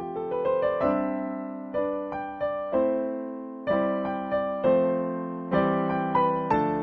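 Solo piano background music: a gentle, slow piece with chords struck about once a second and left to ring.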